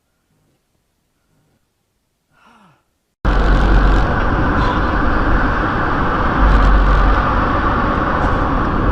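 Near silence for about three seconds, then a sudden cut to loud, steady road and wind noise from a moving car, with a low rumble that swells and eases.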